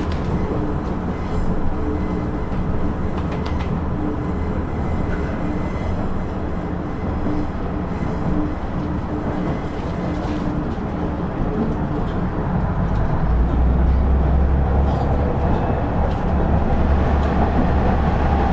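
Running sound of a KiHa 112 diesel railcar heard aboard: a steady mix of engine drone and wheel-and-rail noise. About two-thirds of the way through, a deep rumble grows louder and the whole sound rises a little.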